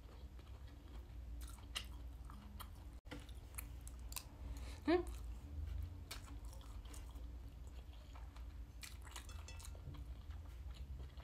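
Close-up chewing of a mouthful of stir-fried broccoli and soya mince fried rice: soft wet mouth clicks and light crunches. About five seconds in there is a brief rising vocal sound from the eater.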